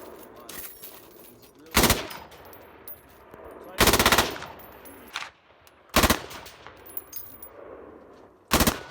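Helicopter door-mounted machine gun firing four short bursts of automatic fire, roughly two seconds apart; the second burst is the longest.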